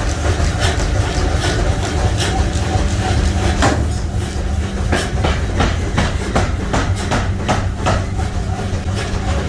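Metalworking machinery running with a steady low hum, with irregular sharp metal clanks and knocks on top, coming quicker in the middle.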